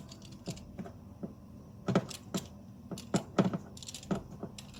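Irregular sharp metallic clicks and clinks of hand tools working on the ignition coil pack bolts, a few strokes in quick succession about two seconds in and again past three seconds.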